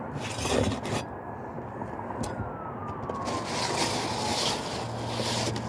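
Distant siren wailing, its pitch falling slowly, over a rising wash of traffic noise, with a few light knocks near the start.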